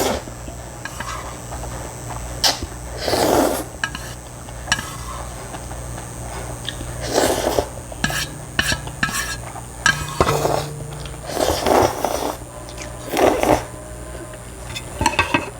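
Eating noises from a bowl of ramen: spoon or chopsticks clicking against the bowl, with about five short noisy slurps of noodles spread among them.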